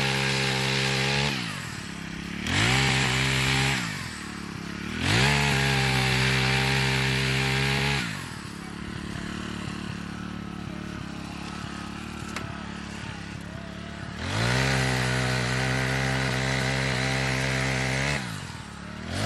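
Gas chainsaw revved to full throttle several times, each rev lasting one to three seconds, and dropping back to a lower idle between them, with a longer idle spell in the middle.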